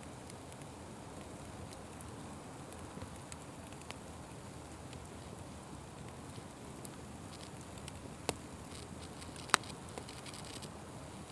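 Wood fire crackling over a steady low rush, with scattered small clicks. Two sharper pops stand out about a second apart near the end, the second the loudest.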